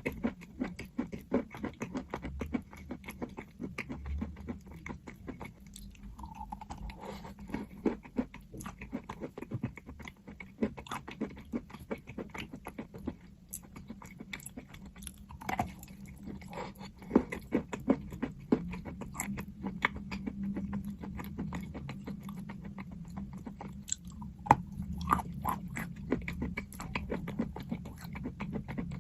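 A person biting into and chewing crunchy chalk: a steady, irregular run of crunches and clicks.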